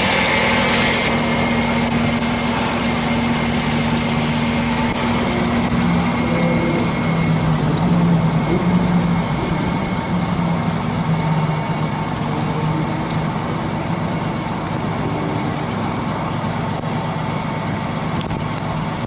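1963 Chevrolet Impala's engine idling steadily, running again after a fuel hose replacement cured a no-start. Its pitch wavers a little partway through.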